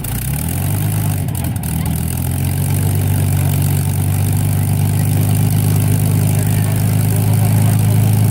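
Supermarine Spitfire's V12 piston aero engine running just after a cold start, unsteady for the first second or two and then settling into a steady run that slowly gets louder.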